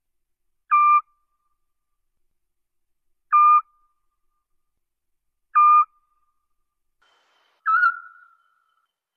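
Eurasian scops owl calling: single short whistled 'tyoo' notes, four times, each starting slightly higher and settling, repeated about every two and a half seconds.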